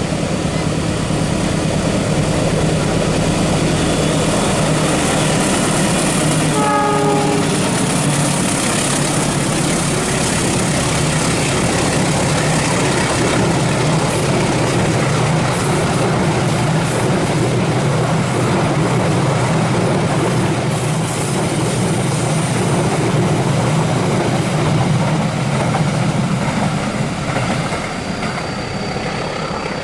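A train passing close by, its wheels and carriages making a loud, steady rumble and rattle, with a short horn blast about seven seconds in. The noise eases off near the end.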